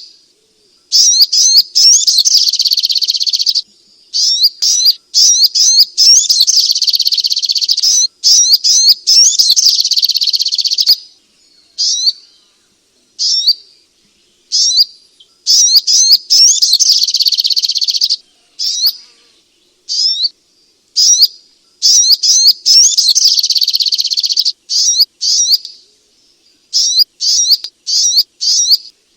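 Little spiderhunter singing: long runs of rapid, high-pitched sweeping notes lasting a few seconds each, broken by short pauses and scattered single notes.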